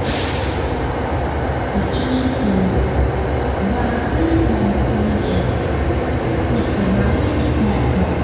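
SRT Red Line electric commuter train pulling into the platform and slowing to a stop: a steady low rumble of wheels and running gear, with short wavering tones over it.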